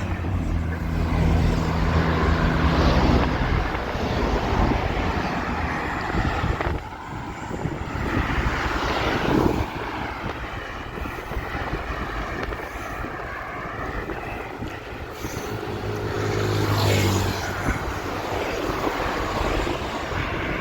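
Strong wind rushing over the microphone of a cyclist riding along a road, with motor vehicles passing: a low engine hum at the start and another about three quarters of the way through.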